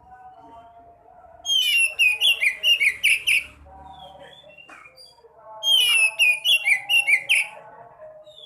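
Sekoci songbird singing two bursts of rapid, high, chattering whistled phrases, each about two seconds long, the first about a second and a half in and the second near six seconds. Fainter, lower bird calls go on steadily underneath.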